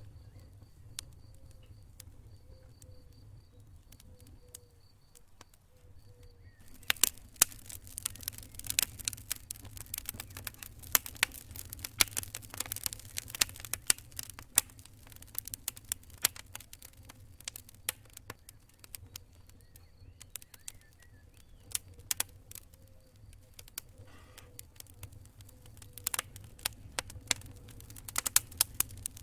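Campfire crackling and popping, with sharp snaps from the burning wood. It has only scattered pops at first, then turns into dense, louder crackling from about seven seconds in, over a low steady rumble.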